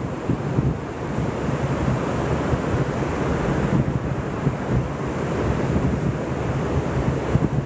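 Ocean surf washing on a beach, with wind buffeting the microphone in a low, uneven rumble.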